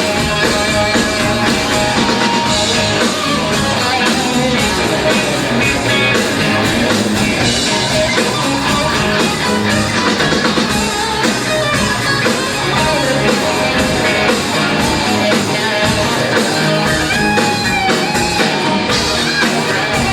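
Live rock band playing an instrumental passage of a blues song: guitar over a drum kit, with no singing.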